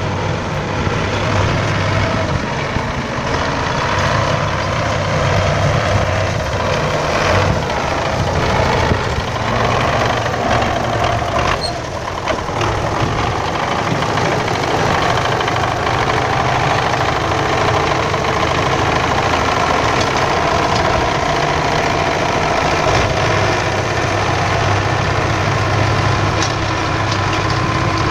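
MTZ-82 tractor's diesel engine running steadily as it works the ground, with a few short knocks and clatters about a third of the way in.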